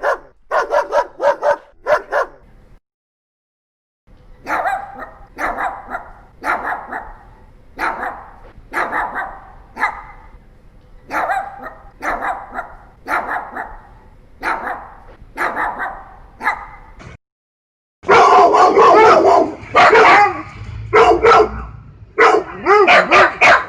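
Dogs barking in three separate recordings. First comes a short run of quick barks. After a brief silence a dog barks steadily, about one bark a second, and after another short gap comes louder, denser barking.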